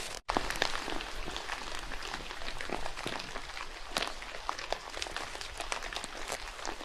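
Rain falling in a forest: a steady hiss with many irregular drops and taps. The sound cuts out for a moment just after the start.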